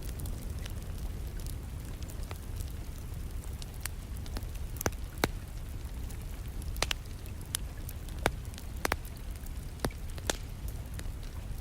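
Wood fire crackling in a fireplace: scattered sharp pops and snaps at irregular intervals over a steady low rumble, with steady rain in the background.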